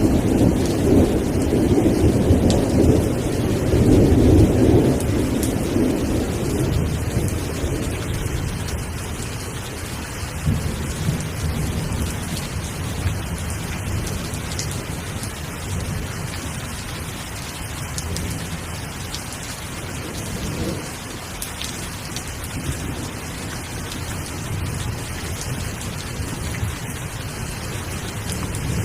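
Steady rain falling, with scattered drops pattering, and a long low rumble of thunder at the start that fades away over the first several seconds.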